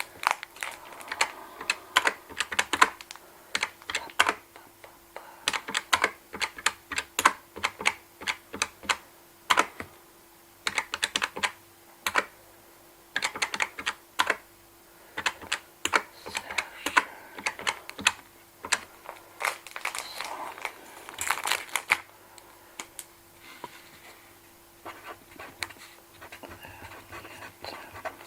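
Cash register keys being pressed in quick runs of sharp clicks, with short pauses between the runs, over a faint steady hum.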